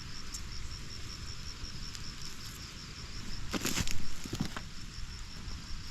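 An insect chirping steadily in an even, rapid pulse of about five chirps a second, over low outdoor rumble. About three and a half seconds in, a brief louder rustle cuts across it.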